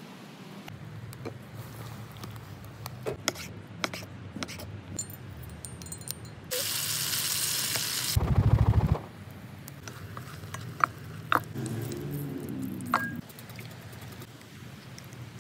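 Raw chicken pieces scraped from a wooden board into a hot pot over a wood fire, sizzling for about two seconds, then a loud low rumble for under a second. Scattered light clinks of utensils against pots and a glass bowl.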